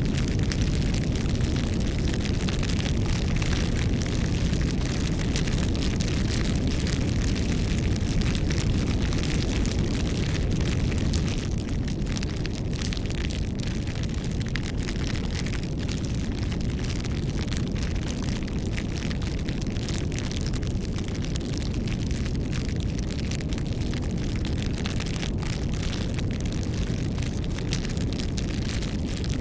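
Bonfire burning: a steady low rumble of flames with frequent small crackles and pops from the burning wood. It drops slightly in level about eleven seconds in.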